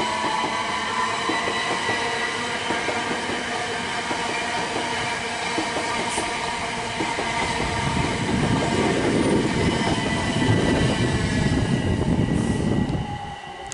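Passenger train running past on the line, with a steady high-pitched whine over the rumble of the wheels. The rumble grows louder about halfway through, then fades near the end.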